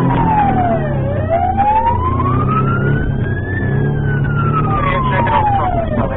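Police car siren in a slow wail, its pitch sliding down to a low point about a second in, climbing to a peak about three and a half seconds in, then falling again, over a steady engine drone.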